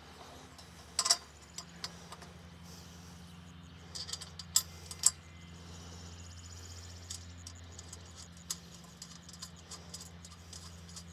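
Small metal clinks and taps of carriage bolts, washers and nuts being handled and finger-tightened on the metal rails of a roof-mount frame: scattered sharp clicks, the loudest about a second in and again around four to five seconds in, over a steady low hum.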